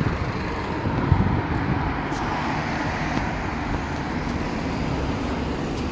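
Road traffic noise: a steady low rumble of vehicle engines and tyres.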